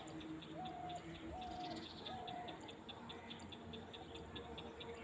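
Field ambience with birds: a bird calls three short, level, whistled notes in the first half, over a steady high ticking about four to five times a second.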